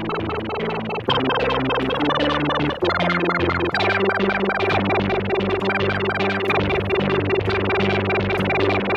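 Electric guitar played through a Boss SY-200 synthesizer pedal set to a sequencer patch, dry with no amp simulation, giving a fast repeating pattern of synth notes. The pattern shifts pitch about a second in and again around three and four seconds in as new notes are played.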